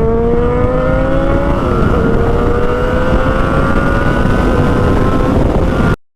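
Motorcycle engine pulling under acceleration, its pitch climbing slowly, dropping as it shifts up a gear a little under two seconds in, then climbing again, with heavy wind rush underneath. It cuts off abruptly near the end.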